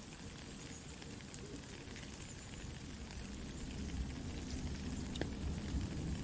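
Soft rain hissing, mixed with a campfire crackling in scattered sharp pops. A low rumble of the fire grows louder from about halfway through.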